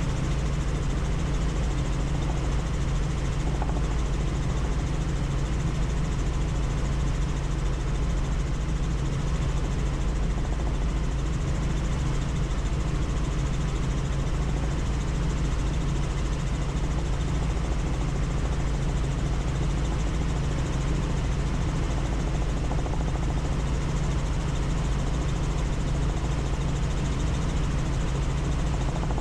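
Helicopter in flight heard from on board: engine and rotor running steadily as a constant low drone with rushing noise above it.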